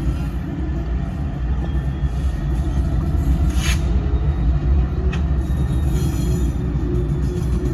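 Train rolling past, a steady loud rumble of wheels on the rails, with a sharp clank about three and a half seconds in and a smaller one about five seconds in.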